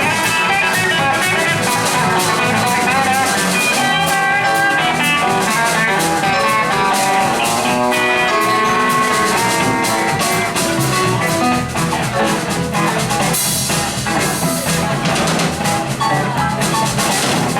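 Instrumental passage of a blues-rock band: electric guitars playing over bass, keyboards and a drum kit, with a cymbal wash a little past the middle.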